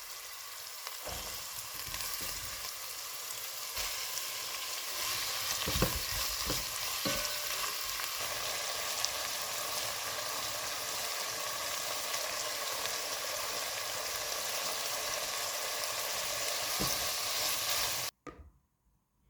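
Food sizzling steadily in hot oil in a frying pan, with a few soft knocks of a utensil stirring it; the sizzle cuts off abruptly near the end.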